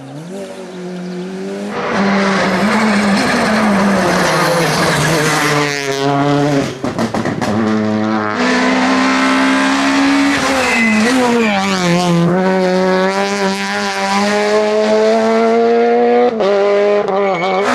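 Rally car engine revving hard on a special stage, getting louder about two seconds in and staying loud as it runs close by; the engine note drops and climbs again several times.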